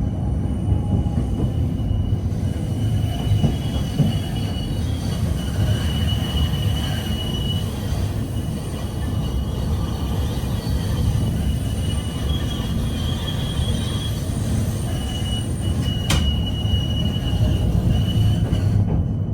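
PKTS 71-931M Vityaz-M tram heard from inside the passenger cabin while running: a steady low rolling rumble with a high wheel squeal that comes and goes, and a single sharp click about sixteen seconds in.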